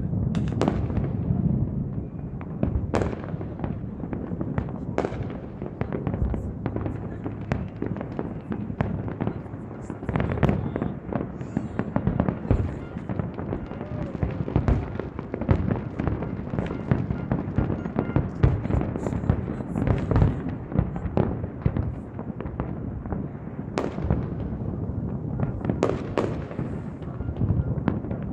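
Large fireworks display: a continuous barrage of bangs and crackling, several reports a second, with a few louder booms standing out.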